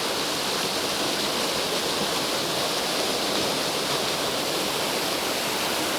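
Waterfall pouring steadily, heard from close by: a continuous even rush of falling water, flowing well.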